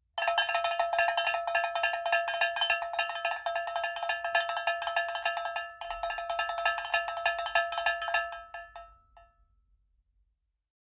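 Fast, continuous run of metallic strikes over a steady ringing pitch. It starts abruptly, dips briefly about six seconds in, and dies away about nine seconds in.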